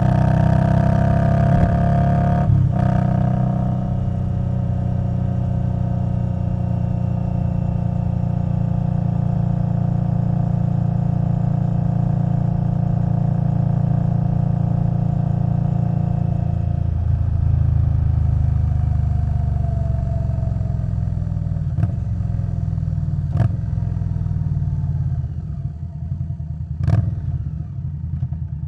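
Indian Scout Bobber Twenty's V-twin through a V&H Twin Slash exhaust, running at a steady cruise with the engine note slowly easing. Partway through the note changes and falls, settling to a lower, quieter rumble near the end as the bike slows, with a few sharp knocks.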